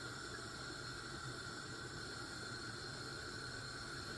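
Steady faint kitchen hiss while a pot cooks on the stove, with no distinct events.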